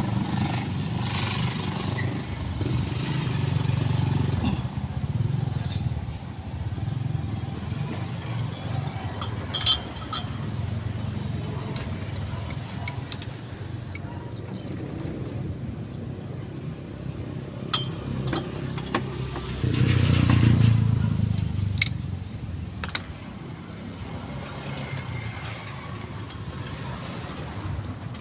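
Motor vehicles running past, a rumble that swells and fades, loudest about twenty seconds in. A few sharp clicks break in now and then.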